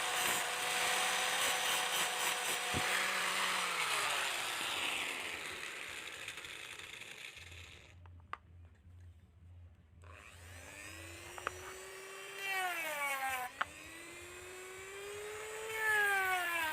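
A small power tool's motor running, then winding down and stopping about four seconds in. After a quiet pause with a single click, it starts again about ten seconds in, its pitch rising and falling as it speeds up and slows.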